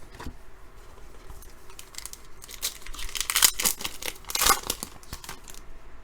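A foil trading-card pack is torn open and its wrapper crinkled, in a run of crackling rips that are loudest about three and a half and four and a half seconds in.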